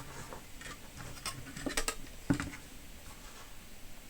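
A few light clicks and taps of small tools and parts being handled at a soldering bench, the sharpest tap a little past two seconds in.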